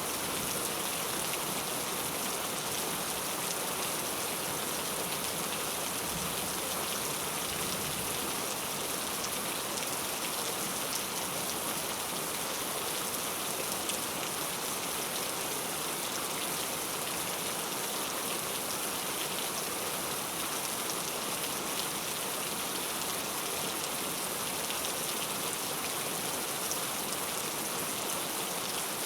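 Heavy rain falling steadily, an even hiss of many drops without a break.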